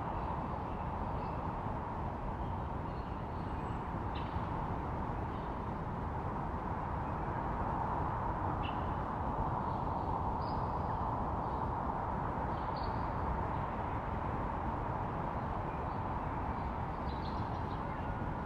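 Birds chirping now and then, short high calls over a steady rushing noise.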